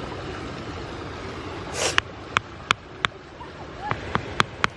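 Steady rush of water, then from about two seconds in, sharp irregular ticks a few times a second, like drops striking near the microphone.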